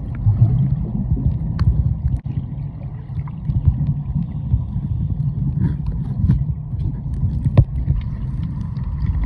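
Muffled, steady low rumble of water moving around the camera, with scattered small clicks.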